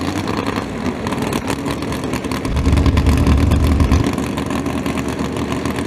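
Loud drag-racing engine running hard with a rapid, rough firing, its low rumble swelling from about two and a half to four seconds in.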